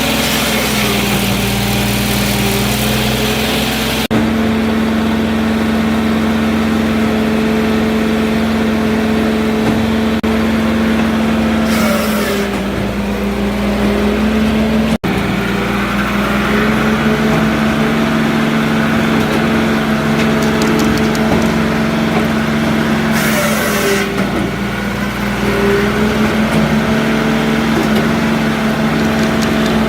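The 44-horsepower diesel engine of a hydraulic firewood processor running steadily. Its pitch sags briefly twice, about 12 and 24 seconds in, each time with a short burst of hiss.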